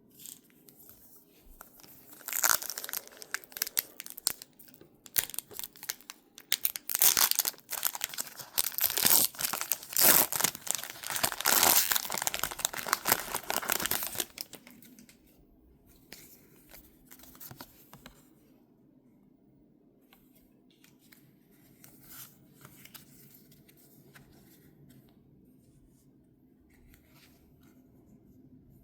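Packaging from a Pokémon card collection box torn open and crinkled by hand, in loud crackling bursts for about twelve seconds. After that come only quiet clicks and rustles of handling.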